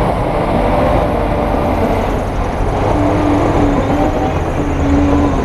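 Heavy diesel earthmoving machinery running hard, a loud steady low rumble, with short high squeals that repeat several times from about three seconds in.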